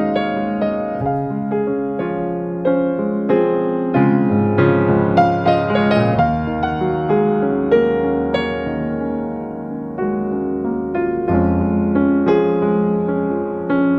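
Background piano music: gentle, slow notes and chords.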